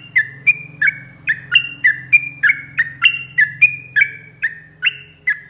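Yellow-vented bulbul (trucuk) singing a long rapid-fire run of sharp, falling chirps, about three a second, over a faint low hum.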